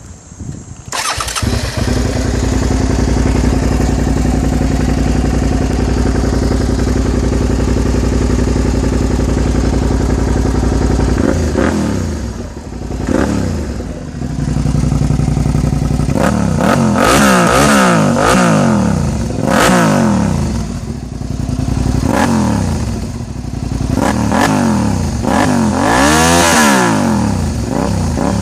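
Suzuki SV650N's 645 cc V-twin engine, breathing through an Ixil exhaust with the dB killer (baffle) removed, starts about a second in and idles steadily, then from about halfway is revved again and again, each rev rising and falling in pitch.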